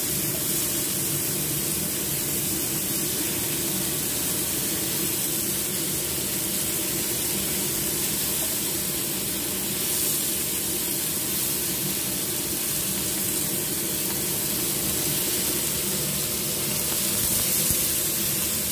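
Floured shellfish pan-frying in shallow oil in a wok, a steady sizzling hiss.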